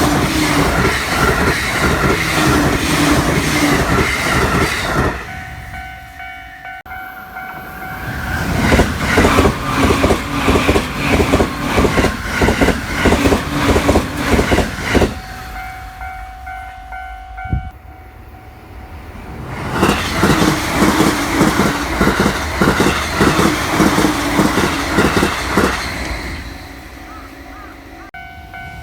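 Joban Line trains passing a level crossing at high speed, up to 130 km/h, three passes in turn, with rhythmic wheel clatter and a rushing roar that swell as each train arrives. In the quieter gaps between passes a Japanese level-crossing warning bell rings in a steady repeating pattern.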